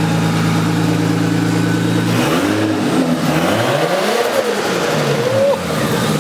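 Nissan RB20 straight-six running at a steady idle, then revved a few times from about two seconds in, the pitch rising and falling with each blip.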